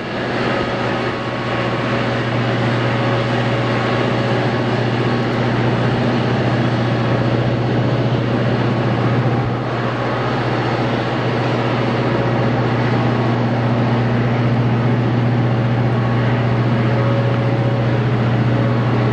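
A large engine or motor running at a steady speed: a loud, even, low drone that holds unchanged throughout.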